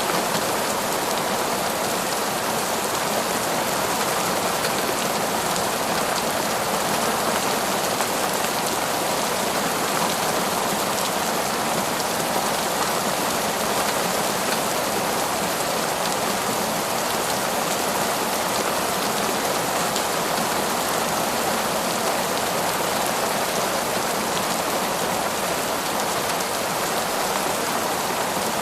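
Heavy, torrential rain pouring steadily, a dense unbroken hiss of drops on leaves and ground.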